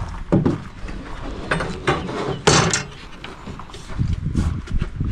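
Wooden boards and shelf hardware being handled and set in place: irregular knocks, clatter and scrapes of wood, with a loud scrape about two and a half seconds in and a run of small clicks and taps near the end.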